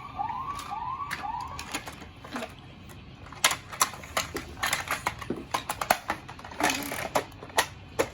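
Electronic siren sound from a Tomica Patrol Car police toy, a quick repeating rise-and-fall wail, stopping about two seconds in. After that come a series of sharp clicks and clatter of plastic toy parts being handled.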